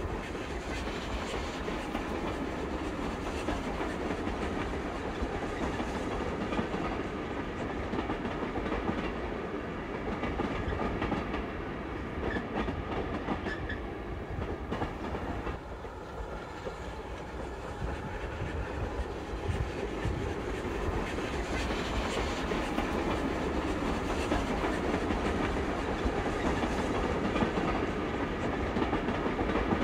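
Steam-hauled passenger train running along the line: a steady rumble with the clatter of wheels on rails. It dips slightly about halfway through, then grows louder again.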